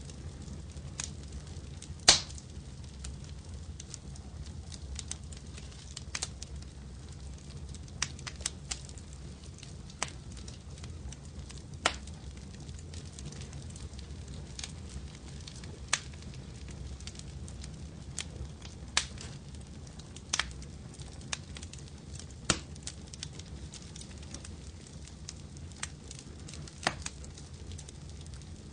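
Wood fire crackling: irregular sharp pops over a low steady rumble, the loudest pop about two seconds in.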